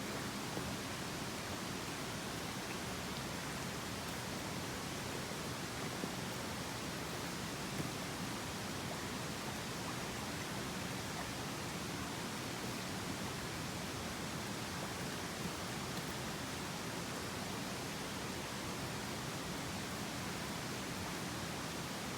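Steady rushing of a mountain stream, with a couple of faint clicks about 6 and 8 seconds in.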